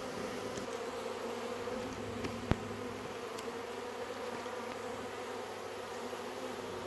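Swarm of honey bees buzzing, a steady dense hum of many bees flying around and crowding into a hive box. One sharp click comes about two and a half seconds in.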